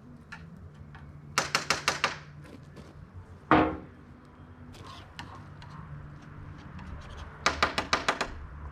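Two short runs of rapid clicking, about a second in and again near the end, with a single loud knock in between, over a faint low hum.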